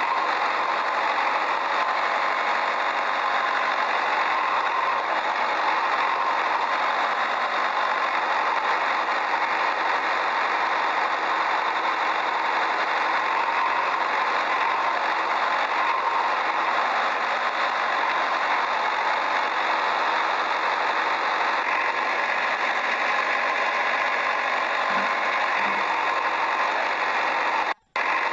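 A motor running steadily. It cuts out for a moment near the end.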